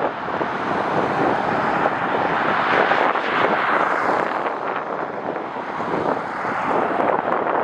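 Jet airliner engines passing, a noisy roar that swells to its loudest about three seconds in and then eases, with gusty wind buffeting the microphone.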